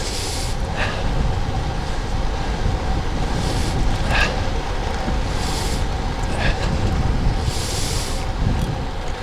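Wind rushing over the microphone and the Vilano Shadow road bike's tyres rumbling on rough pavement while coasting downhill, with a few light knocks about a second in, near the middle and later on.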